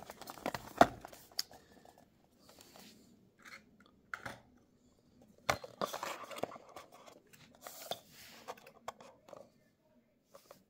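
Stiff plastic packaging crackling and clicking in short, scattered bursts as small diecast model cars are pushed out of it.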